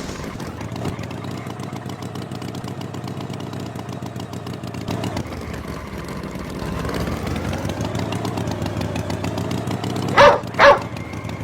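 Cartoon tractor engine sound effect running steadily, rising in pitch about two-thirds of the way in. Near the end a dog barks twice, short and loud.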